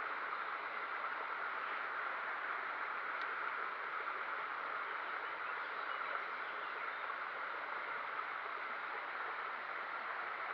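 Steady rush of running water from a stream or river, an even noise without breaks.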